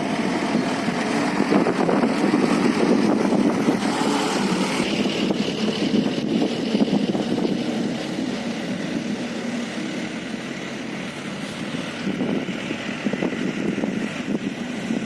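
Diesel engines of dump trucks running as the trucks pass on the road. The sound is loudest in the first half, eases off for a few seconds, then builds again near the end.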